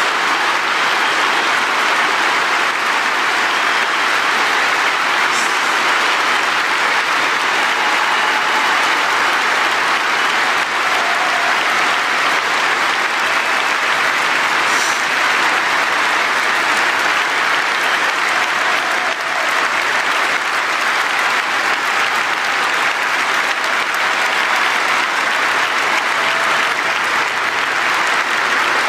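Large audience applauding in a long, steady ovation.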